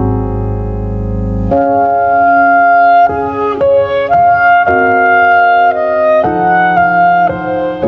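Instrumental keyboard music: a sustained low chord, then about a second and a half in a melody of held notes that changes pitch roughly every half second.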